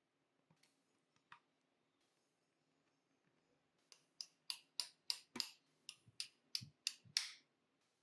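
A run of about a dozen sharp clicks, roughly four a second, starting about halfway in, after two faint clicks earlier on.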